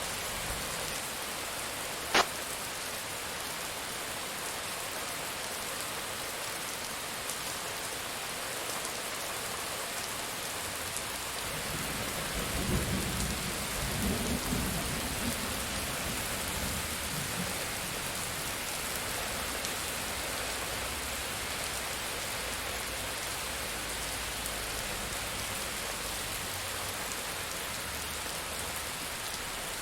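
Steady heavy rain hissing on a surface. A single sharp crack about two seconds in, then a low roll of thunder rumbling for several seconds from about twelve seconds in.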